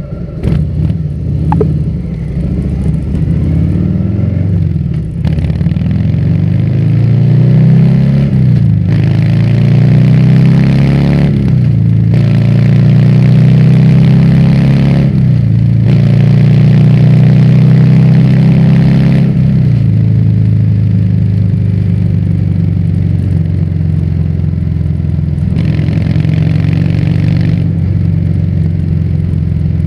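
Harley-Davidson Fat Bob's Milwaukee-Eight 114 V-twin through a Vance & Hines exhaust, ridden under way. The engine note climbs and drops back several times, as at gear changes, then runs steadier from about twenty seconds in.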